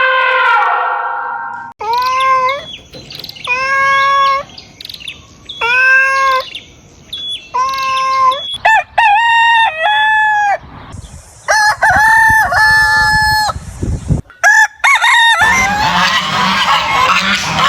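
A succession of different bird calls. First come loud pitched calls repeated about every two seconds, each rising then holding level. Then a quicker run of calls, and near the end a dense chorus of many chirps.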